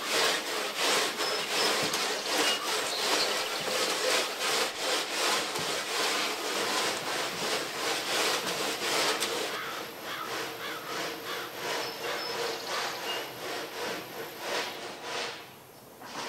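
A light drum rubbing and scraping against a wooden cutting jig as it is turned and pulled through a hot wire, in a steady rhythm of a few strokes a second that grows softer about ten seconds in.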